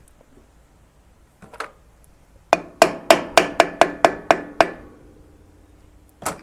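A hammer tapping on metal: a couple of knocks, then a quick run of about nine ringing strikes over two seconds, about four a second, and two more knocks near the end.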